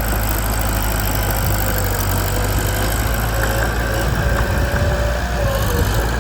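Mitsubishi BD2 bulldozer's diesel engine running steadily, its low drone turning rougher and more uneven about four seconds in.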